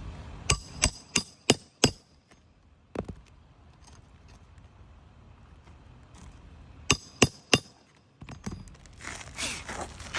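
Sharp metal hammer blows on a shingle roof during a shingle repair: a quick run of five strikes, a single one a second later, then three more about seven seconds in.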